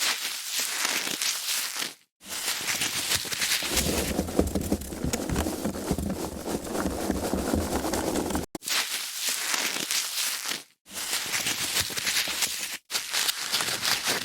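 Foam packaging being handled and crushed, a continuous rustling crackle that comes in several takes separated by brief silences, one take carrying a heavier low rumble.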